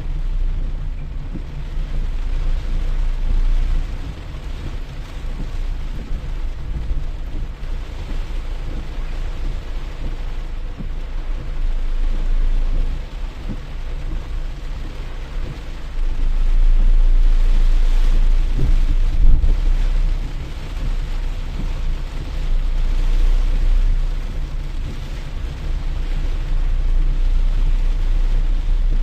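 Steady rainfall with a continuous deep rumble underneath that grows louder a little past halfway through.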